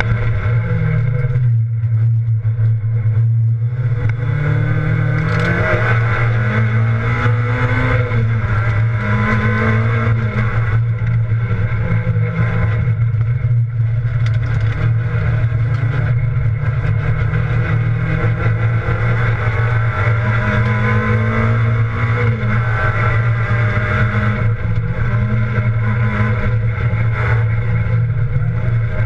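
Rally car engine heard from inside the cabin at speed on a stage, revving up and dropping back again and again as the car accelerates and shifts, over loud steady road noise.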